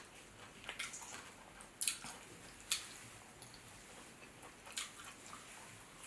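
Wet eating sounds from a person eating seafood-boil crab by hand: smacking and sucking, with a handful of sharp clicks.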